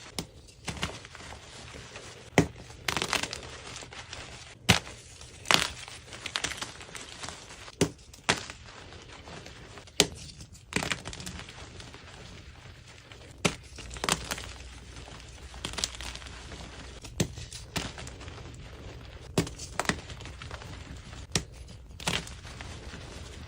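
Block gym chalk being crushed and broken: sharp, irregular snaps every second or two over a soft, continuous crumbling crunch.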